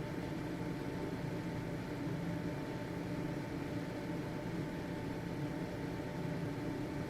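Household ventilation fan running steadily: an even motor hum and airflow whoosh with a faint steady whine.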